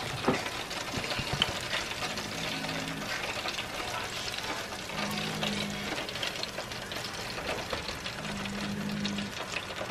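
Freshly deep-fried rabbit pieces crackling and sizzling in a wire fryer basket lifted out of the hot oil: a steady fine crackle of many small pops.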